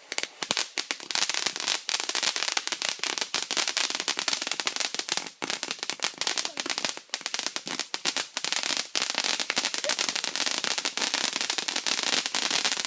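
Consumer firework giving off a dense, rapid crackle of many small pops, like a crackling fountain.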